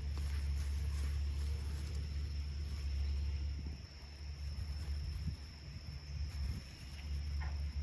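Insects chirring, a thin steady high note held throughout, over a low rumble that eases off about four seconds in.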